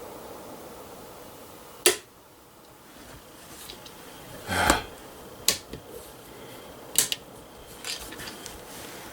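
A single shot from a Dixie Arms Tennessee poor boy flintlock rifle about two seconds in, a short sharp crack, with a 100-grain black-powder charge. A duller thump follows near the middle, then a few sharp clicks and knocks.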